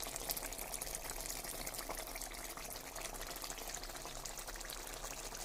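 Chicken curry simmering in a pot on a lit stove: a steady bubbling with many fine crackles.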